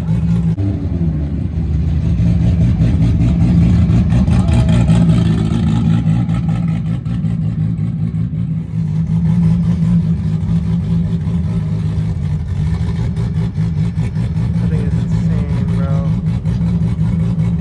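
Big-turbo drag car's engine running loud and rough at idle, swelling louder for a few seconds about two seconds in.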